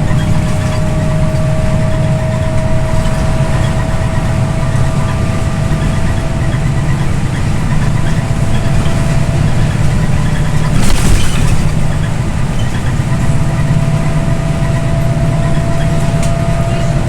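Scania OmniLink I city bus running, heard from inside the cabin: a steady low engine drone with a faint whine that rises slightly in pitch. There is one short hiss about eleven seconds in.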